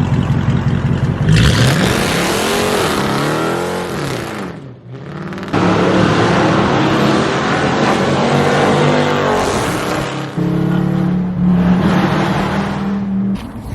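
Dodge Charger R/T's 5.7-litre HEMI V8 exhaust revving: the note climbs and falls back once, then runs on loud and fairly steady, in several spliced clips that start and stop abruptly.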